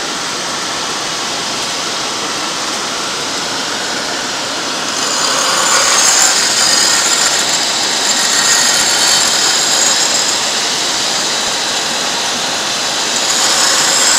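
Diamut grinder reprofiling a turbo-rim diamond wheel: steady machine and grinding noise that grows louder and shriller about five seconds in, eases, and swells again near the end.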